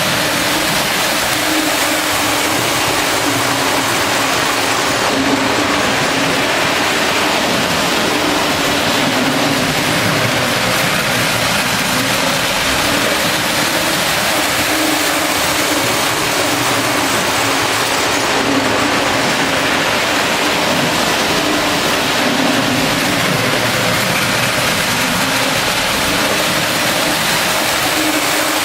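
O gauge model GG1 electric locomotive running on track: a steady whirring hiss from the motor, gears and wheels, with a low hum that comes and goes.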